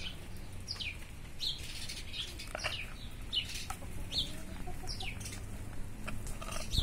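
A bird chirping over and over, short high chirps falling in pitch about once a second. A wooden board knocks once near the end.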